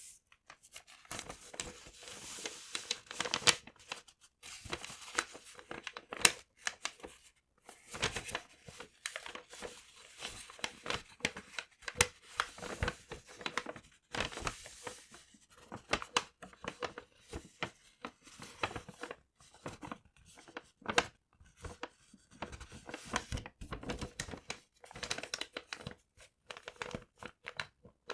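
Paper being torn and crinkled close to the microphone, in irregular bursts of rustling with sharp crackles and short pauses between them.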